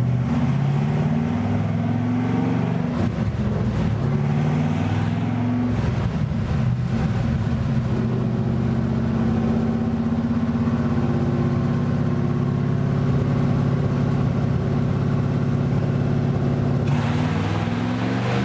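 5.3-litre LS V8 running under load on a dyno: its pitch shifts up and down at first, then holds steady for several seconds, and starts to climb again near the end.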